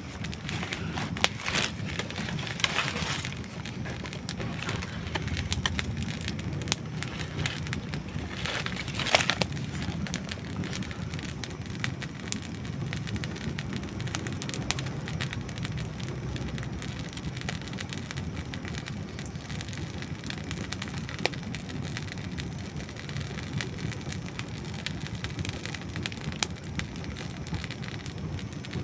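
Campfire of dry wood burning: a steady low rush of flame with irregular crackles and pops, busiest in the first few seconds, and a loud snap about nine seconds in.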